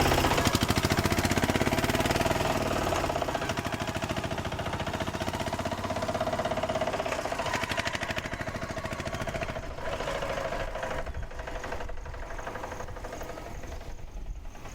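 An engine-like sound with a fast, even rattle and a steady hum, slowly fading over the last few seconds.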